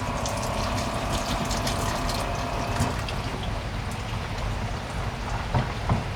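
Heavy rain pattering, with many separate drop impacts over a steady low rumble. A steady hum stops about three seconds in, and two dull thumps come near the end.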